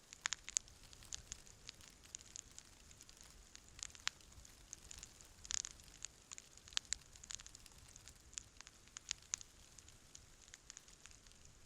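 Wood campfire crackling: irregular sharp pops and snaps from the burning wood, with a short run of stronger pops about halfway through.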